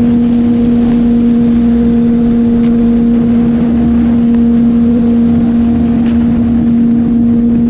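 Suzuki GSX-R sportbike engine running at a steady speed while cruising, one even drone that holds its pitch, over wind rushing across the microphone.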